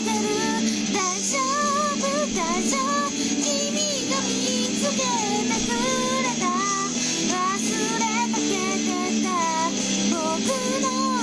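A high voice singing a melody with vibrato over an instrumental backing track.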